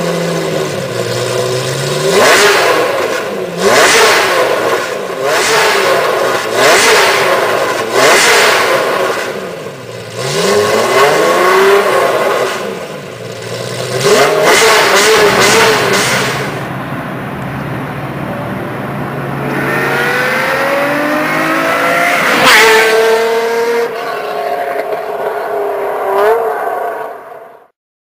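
Lamborghini Diablo 6.0's V12 engine through a Kreissieg aftermarket exhaust, blipped in a series of sharp revs that rise and fall in pitch. This is followed by a steadier, longer run with climbing pitch before the sound cuts off suddenly near the end.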